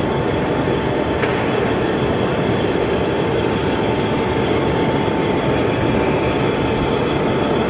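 0 gauge model train running on the layout over steady hall background noise, with a short click about a second in.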